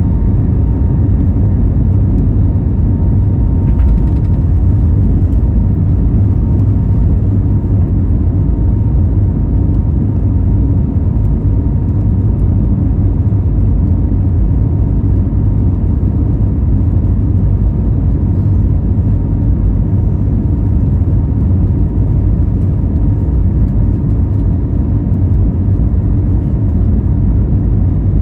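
Airbus A320neo engines and airflow heard from inside the cabin: a loud, steady rumble.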